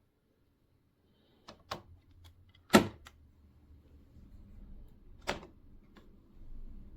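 A few sharp clicks and knocks, the loudest about three seconds in, with a low steady hum starting after it and growing louder near the end.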